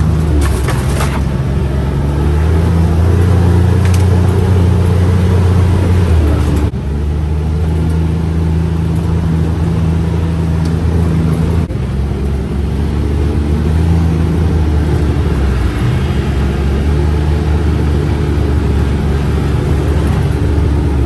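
A UTV's engine running while driving, its pitch rising and falling with the throttle. There are two sudden breaks in the sound, about seven and twelve seconds in.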